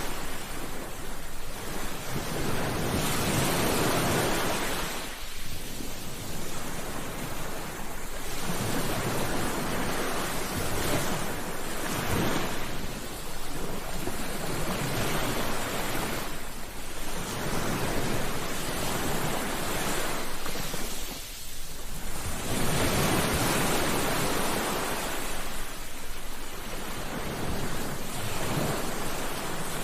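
Ocean waves breaking on a beach: a steady wash of surf that swells and falls back every few seconds.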